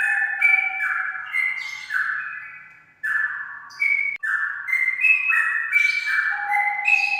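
Straw-headed bulbul (cucak rawa) singing its loud, flute-like warbling song in repeated phrases of stepped, liquid notes, with a short pause about three seconds in.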